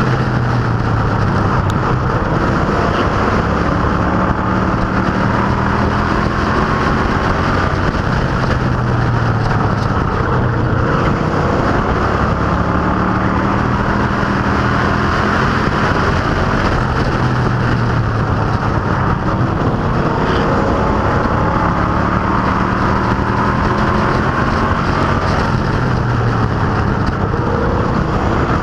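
Field of Street Stock race cars and Pro Trucks racing, engines running hard with their note repeatedly rising and falling.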